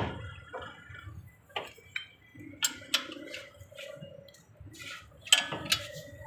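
Scattered light clicks and knocks of hand tools and metal parts being handled, about eight strikes at uneven intervals.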